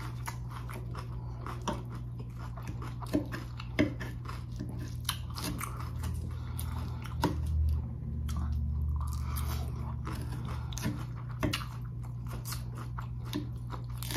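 Close-miked chewing of a crisp romaine lettuce salad: irregular wet crunches and bites of the leaves, over a steady low hum.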